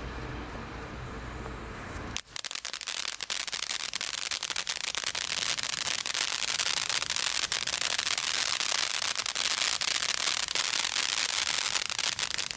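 A low background rumble, then about two seconds in a firework from a Brothers Pyrotechnics Bonfire Party selection box starts crackling. It is a dense, rapid stream of sharp crackles that keeps up for about ten seconds and stops abruptly at the end.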